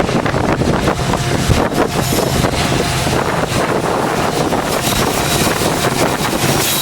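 Wind buffeting the microphone in steady, heavy gusts over the low rumble of freight train diesel locomotives pulling a loaded train away.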